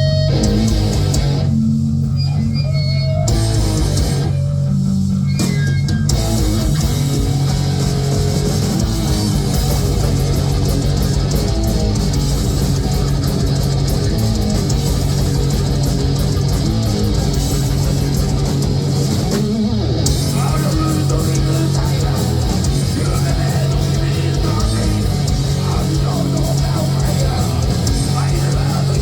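Heavy metal band playing loud: distorted electric guitars, bass guitar and drums. The band hits short stop-start breaks in the first few seconds, then plays on in full.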